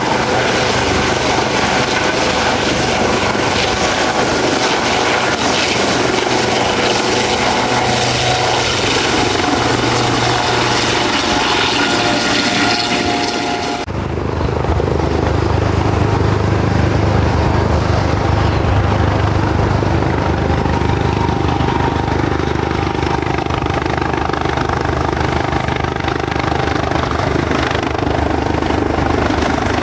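Helicopter running close by, a high turbine whine over the rotor noise. About halfway through the sound changes abruptly to a heavier, deeper rotor beat with the whine much reduced.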